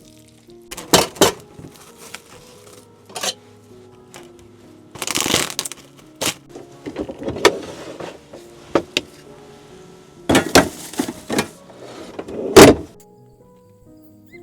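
Soft background music with a series of loud, sharp knocks and clatter, about a dozen in all, including a longer rattling burst about five seconds in. The knocks stop about a second before the end.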